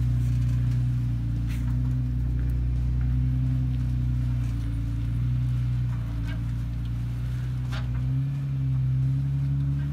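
Jeep Wrangler engine running at low revs as it crawls over rock, the revs rising about eight seconds in, with a few faint clicks.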